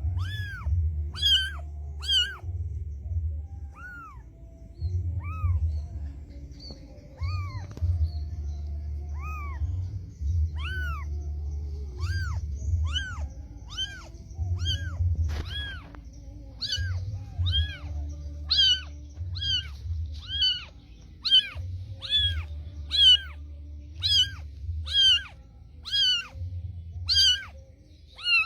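Cat mewing over and over: short, high-pitched mews that rise and fall. They come about once a second at first and quicken to about two a second in the second half, over a low steady rumble.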